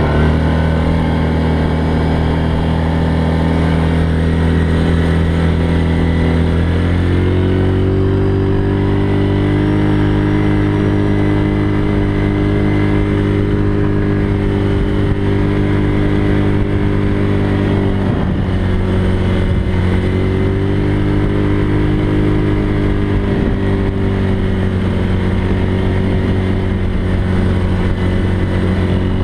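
ATV engine running under way at a steady pace. Its revs step up about seven seconds in and ease off briefly twice, around the middle and a little later, before settling again.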